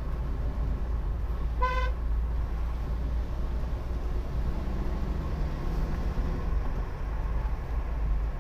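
A car horn gives one short toot about two seconds in, over the steady low rumble of a car driving.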